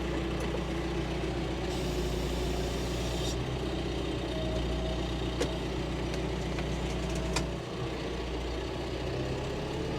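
Farm tractor engine running steadily, heard from inside the cab.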